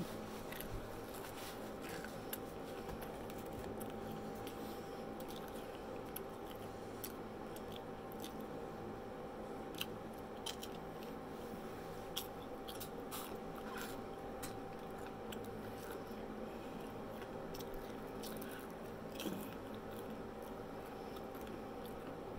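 Close-up chewing of crisp fried onion rings: scattered small crunches and wet mouth clicks, over a faint steady hum.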